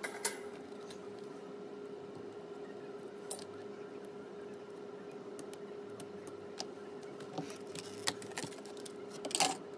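Sparse small clicks and taps of tools and parts handled during an iPhone 14 disassembly, with a short cluster of clicks near the end, over a steady faint hum.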